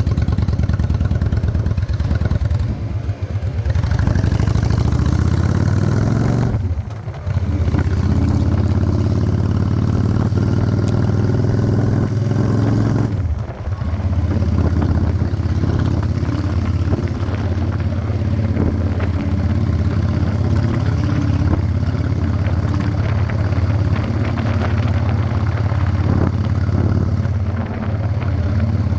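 Honda Shadow 600 chopper's V-twin engine running under way, a steady low engine note. The note dips briefly three times in the first half, then runs on evenly.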